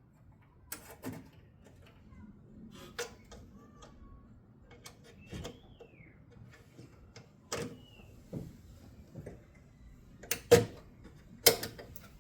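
Scattered clicks and knocks of parts and tools being handled and packed away, with two sharper knocks near the end.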